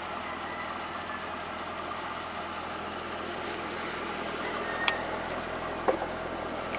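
Chevrolet Corvette C5's 5.7-litre LS1 V8 idling steadily, with three light clicks in the second half.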